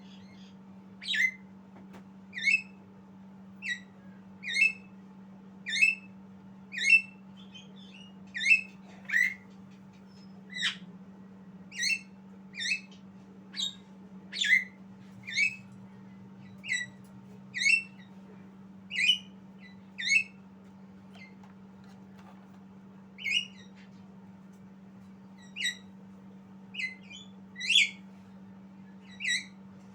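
Javan myna (jalak kebo) calling: short, sharp, high calls repeated about once a second, each a quick falling note.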